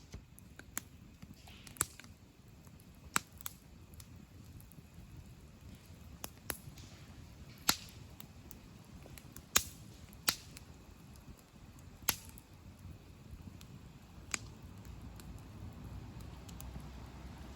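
Wood campfire crackling, with sharp pops at irregular intervals over a faint low rush of burning.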